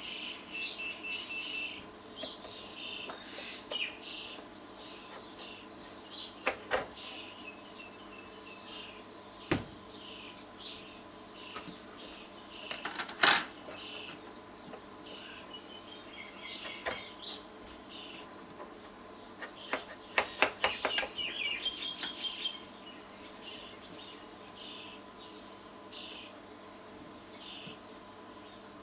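Sharp clicks and a quick run of clatter from tools and metal parts while boards are taken out of a power amplifier and swapped, the loudest click about 13 seconds in. Small birds keep chirping in the background, over a faint steady hum.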